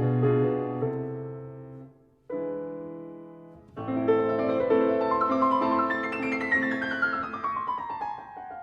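Background piano music: held chords that fade almost to nothing about two seconds in, a fresh chord, then a flowing passage with a run of notes falling in pitch near the end.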